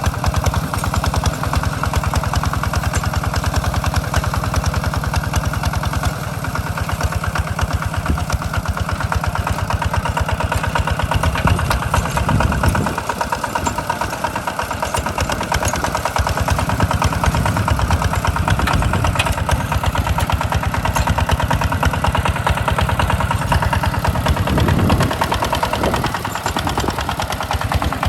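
Hinota walking tractor's engine running steadily under load as it ploughs a rice field, its firing pulses fast and even. The engine note shifts briefly about halfway through and again near the end.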